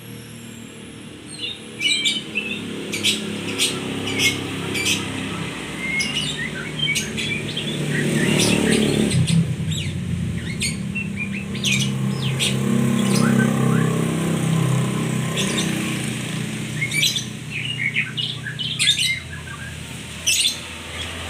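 A murai songbird singing a run of short, sharp chirps and whistled notes. A motor vehicle's engine hum rises in the background and is loudest about halfway through.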